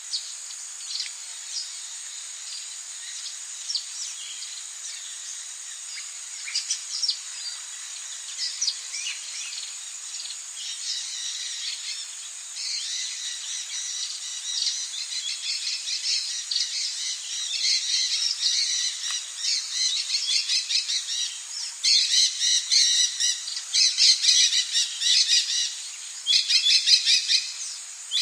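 Rainforest birds calling in quick, repeated chattering notes, growing busier and louder through the second half, over a steady high-pitched insect drone.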